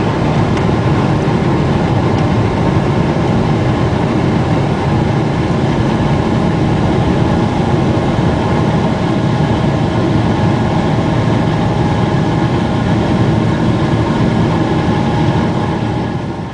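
Boeing 777-200 jet engines running at high thrust, heard from inside the cabin over the wing: a steady loud rush of engine and air noise with a few faint steady whining tones on top.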